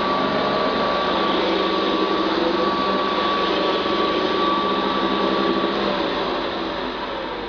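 Hoover Convertible U4401 upright vacuum cleaner running on carpet, a steady motor drone with a thin whine. About six seconds in the whine stops and the sound starts to fade as the motor winds down.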